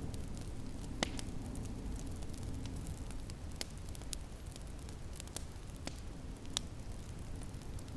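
Wood fire crackling, with sharp pops at irregular intervals over a steady low rumble; the loudest pops come about a second in and a little past six seconds.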